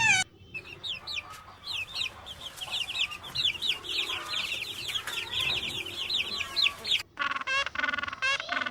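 A flock of birds calling in rapid, overlapping high chirps that each fall in pitch. About seven seconds in the sound cuts off suddenly, and a different, lower bird call follows, repeated several times.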